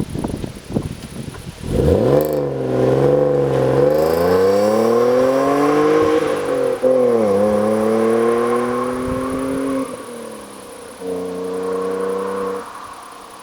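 Peugeot 407 Coupe's 3.0-litre petrol V6 through a cat-back exhaust with the middle silencer removed, revving and accelerating. After a second and a half of uneven rumbling the engine note rises, dips about seven seconds in as if for a gear change, climbs again, holds steady briefly and then drops away near the end.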